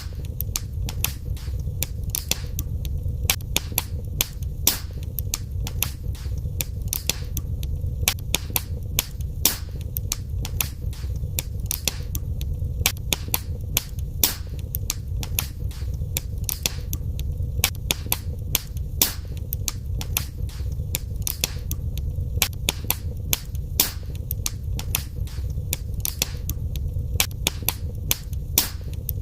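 Wood fire burning in a fireplace, crackling and popping at an irregular rate, with several sharp pops a second over a steady low rumble of the flames.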